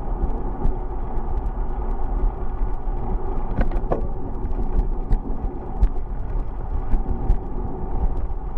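Steady rumbling road and wind noise from riding a bicycle, with scattered small clicks and rattles.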